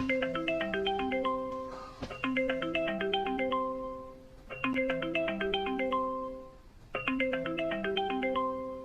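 Mobile phone ringtone: a short marimba-like melody repeating over and over, about four times, with a brief dip between repeats.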